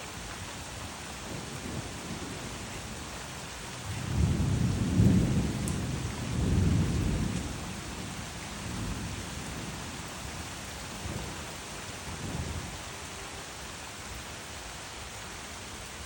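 Thunder rumbling about four seconds in, swelling twice and then fading in a few weaker rolls, over the steady hiss of heavy rain.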